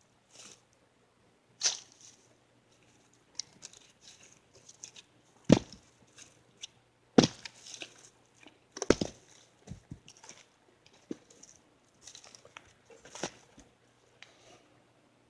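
Scattered knocks and clicks with light rustling, and three sharper thuds about five, seven and nine seconds in, over a faint low hum.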